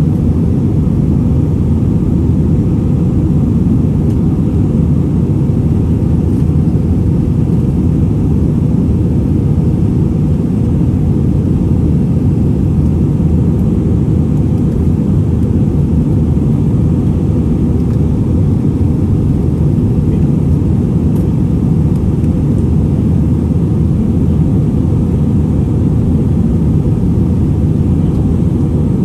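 Steady low rumble of a jet airliner heard from inside the passenger cabin: engine and airflow noise, unchanging in level.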